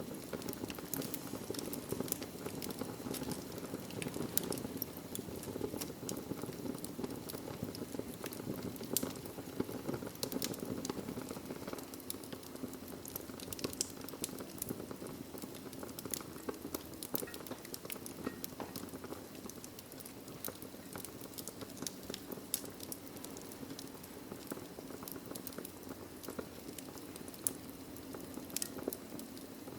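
Wood fire burning in a fireplace: a steady low rumble and hiss of the flames with frequent irregular sharp crackles and pops from the burning logs.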